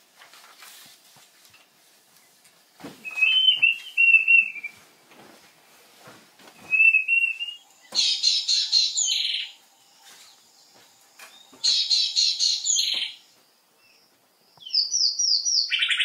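Wild birds calling: short warbled phrases, then two loud bursts of rapid repeated chattering notes about 8 and 12 seconds in, and a quick run of notes near the end.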